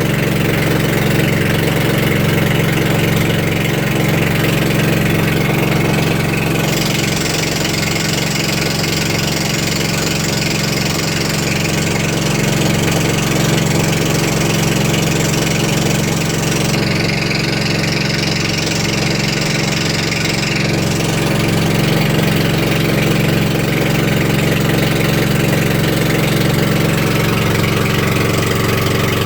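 Boat engine running steadily with an even, unbroken drone.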